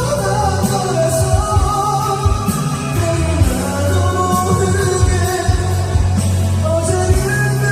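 A man singing a Korean pop-rock ballad live over a karaoke backing track, with bass and steady drum beats underneath his voice.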